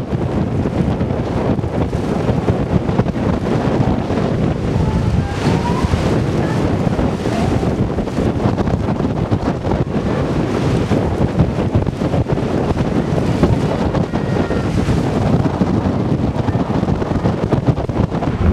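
Typhoon wind buffeting the microphone in a continuous low rumble, with heavy surf from the storm-driven sea underneath.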